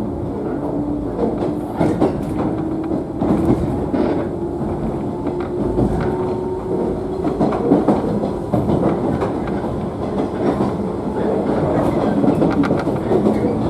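JNR 113 series electric train running, heard from inside the motor car: a steady rumble with wheels knocking over rail joints, and a faint motor whine that rises slowly through the first half as the train gathers speed.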